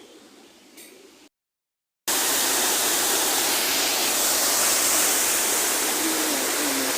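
Waterfall rushing, a loud steady wash of falling water that cuts in abruptly about two seconds in, after a moment of dead silence.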